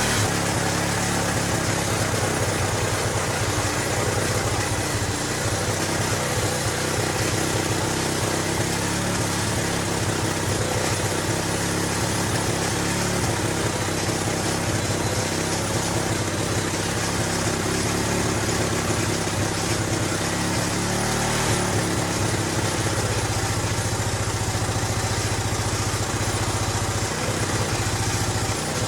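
Jianshe Tiger JS200GY 200cc air-cooled four-stroke single-cylinder engine running at a steady idle. The bike was a non-runner and is now running on a carburettor whose blocked main and pilot jets have just been cleaned.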